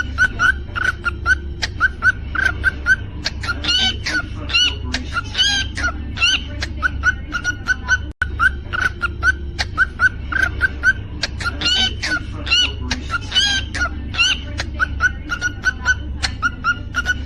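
Cockatiel chirping in quick short calls, several a second, breaking twice into runs of rising whistled notes, over a steady low hum. The sound cuts out for an instant about eight seconds in.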